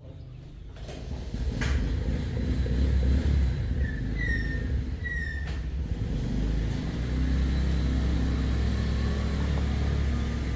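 Motorcycle engine running, growing louder over the first second or two and then holding steady.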